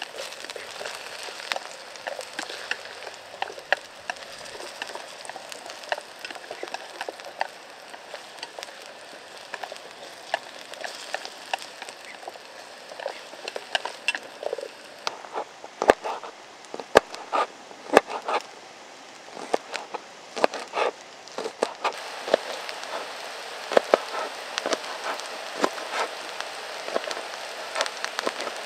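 Wood fire crackling steadily with many small snaps, and a few sharper, louder pops around the middle.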